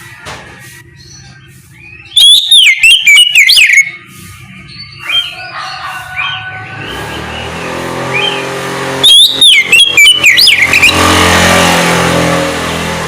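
Oriental magpie-robin (kacer) singing its loud, clear song in two bursts of rapid, sharply gliding whistled notes, about two seconds in and again about nine seconds in. From about the middle a steady low hum rises beneath it and eases off near the end.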